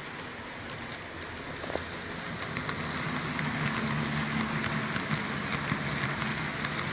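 HO scale model freight train running on the layout: the electric motors of its five model diesel locomotives hum steadily, with light clicking of wheels on the track and faint high squeaks. The hum grows louder about two seconds in.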